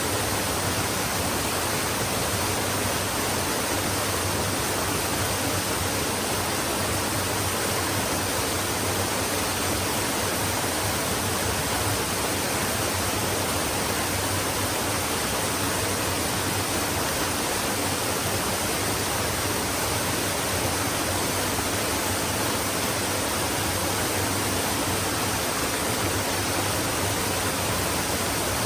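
Flowing stream: a steady, even rush of running water with no changes in level.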